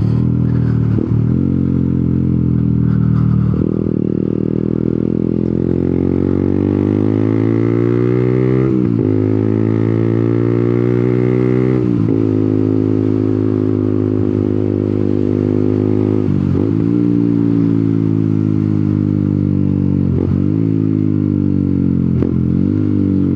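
125cc motorcycle engine running while riding, its note climbing as it accelerates and dropping sharply at each gear change, several times.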